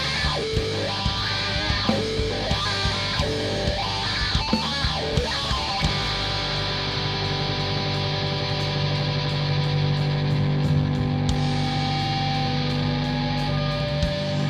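Rock band playing an instrumental passage: guitar playing a choppy rhythmic part over drum hits, then about six seconds in changing to long held chords over a light, steady ticking beat.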